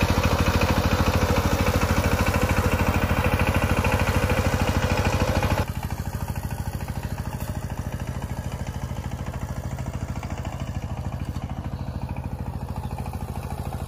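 Power tiller's single-cylinder diesel engine running steadily with a rapid, even pulse. About five and a half seconds in it suddenly becomes quieter and carries on.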